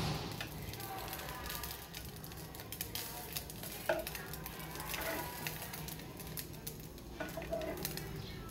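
Radish cake slices sizzling as they fry in a hot nonstick pan, a steady crackle. Metal tongs knock and scrape against the pan now and then while they split the slices, most sharply about four seconds in.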